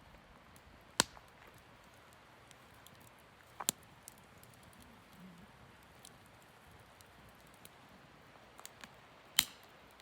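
Small pieces of wood burning in a campfire, giving a few sparse, sharp pops: one about a second in, a quick double pop near four seconds in, and the loudest near the end, with faint ticks between.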